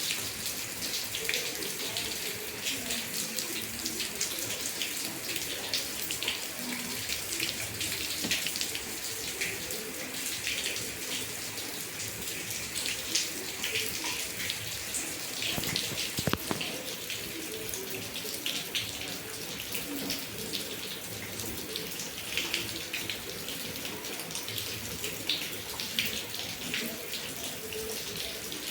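Steady heavy rain falling and running off, with many small ticks of close drops splashing and one sharp click about sixteen seconds in.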